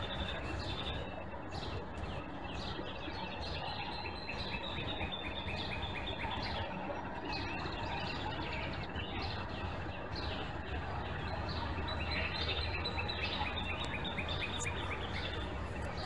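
Songbirds calling, with rapid trilled runs of high notes about two seconds in and again about twelve seconds in, over a steady background rumble.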